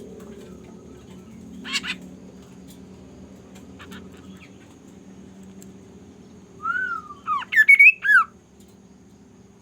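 A pet bird squawking: one short harsh rasp about two seconds in, then a quick run of four or five loud, arching calls that swoop up and down near the end. A steady low hum runs underneath.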